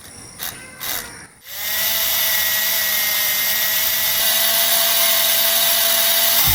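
A small electric motor starts abruptly about a second and a half in and then whirs steadily, with a high, even whine. A couple of light knocks come just before it starts.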